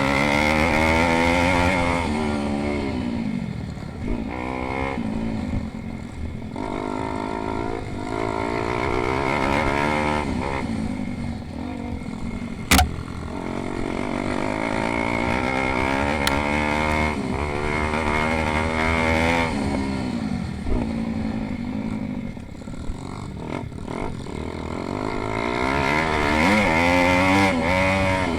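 Pit bike engines racing: small motorcycle engines rev up and drop back over and over as the bikes accelerate, shift and brake. There is a sharp knock about halfway through.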